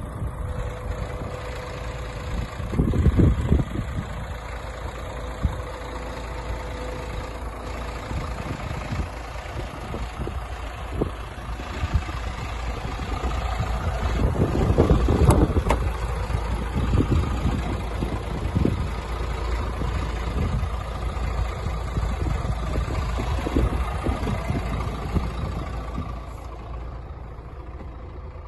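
Scania R450 truck's 13-litre inline-six diesel engine running steadily at low revs, swelling louder briefly a few seconds in and again about halfway through.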